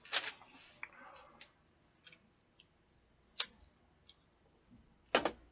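A handful of scattered sharp clicks and small taps at irregular intervals, the loudest near the start, a little past the middle and just before the end.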